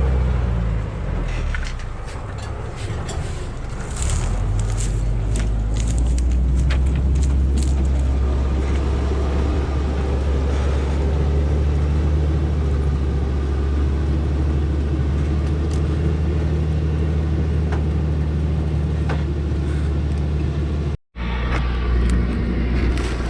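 Heavy timber truck's engine running with a steady low drone, with scattered knocks and rattles in the first several seconds. The sound cuts out for a moment near the end.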